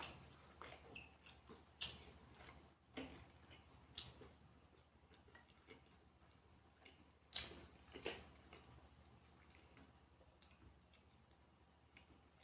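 Faint eating sounds: scattered soft clicks and crunches of a person chewing food close to the microphone, with two louder ones about seven and eight seconds in.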